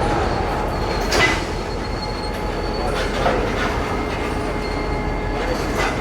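Railroad cars rolling along the track, the wheels squealing in a thin steady tone over a steady rumble, with three sharp clanks spread through.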